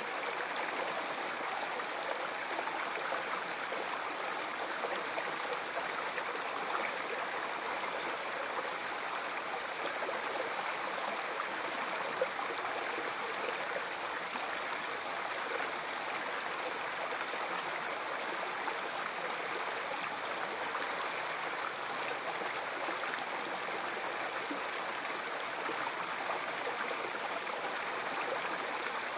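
River water flowing over rocks, a steady rushing and gurgling with no breaks.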